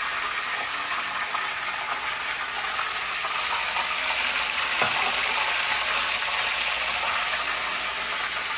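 Stuffed squid sizzling steadily as it fries in hot oil in a pan, with one short knock about five seconds in.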